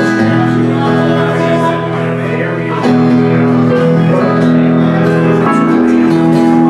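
A live country band playing an instrumental passage led by guitar. Held chords change about three seconds in and again near the end.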